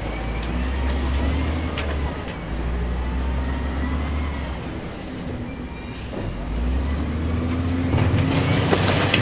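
Crawler bulldozer working: its diesel engine runs at a heavy drone whose pitch shifts a few times with the load, while the steel tracks squeal and clank. It gets louder near the end.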